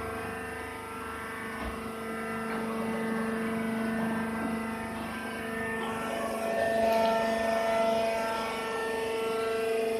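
Rice husk baling machine running, a steady mechanical hum with several held tones over a noisy whir.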